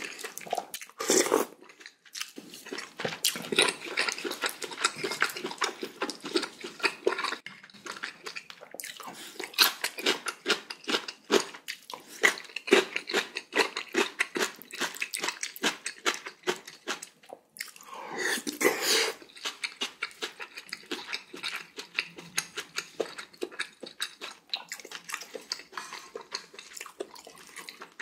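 Close-miked eating sounds: rapid crunching and wet chewing of cubed radish kimchi (kkakdugi) with pork-bone soup and rice. A louder, longer noisy sound of about a second comes about two-thirds of the way through.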